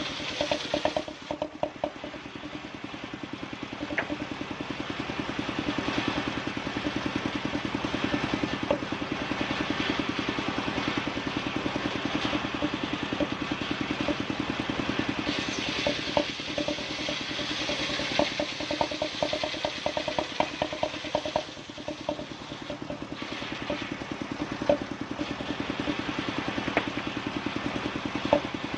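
Engine of a wood-sawing machine running steadily with a fast, even beat, with scattered clatter and knocks. The sound grows louder and brighter for several seconds around the middle, as in sawing.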